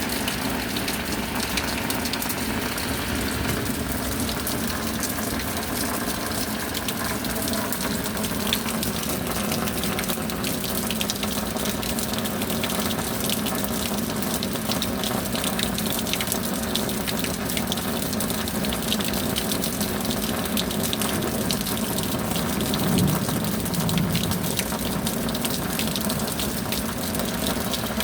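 Steady rain: a dense patter of drops over an even rush, swelling briefly about three-quarters of the way through.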